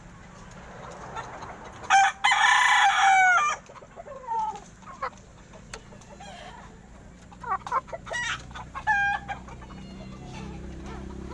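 A rooster crowing loudly once, about two seconds in, with shorter chicken calls around eight to nine seconds.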